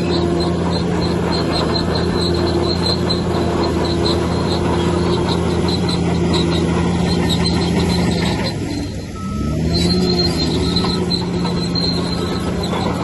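Heavy diesel earthmoving machine running steadily under load, with repeated high squeaks and clanks like a bulldozer's steel tracks. About nine seconds in the engine briefly drops, then revs back up.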